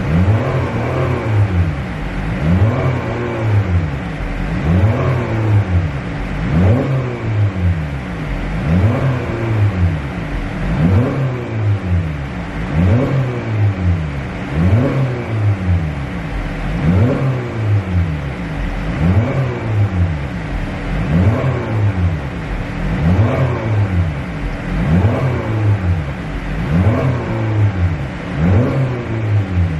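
Car engine being revved over and over, its pitch climbing and falling back about every two seconds in an even rhythm.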